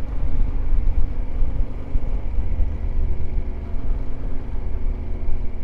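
Yamaha Ténéré 700 parallel-twin motorcycle engine running steadily while riding, under a heavy low rumble.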